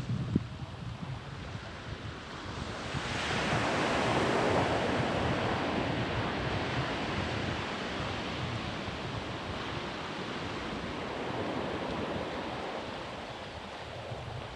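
Ocean surf on a sandy beach: a wave builds and breaks about three seconds in, then slowly washes out. Wind rumbles on the microphone underneath.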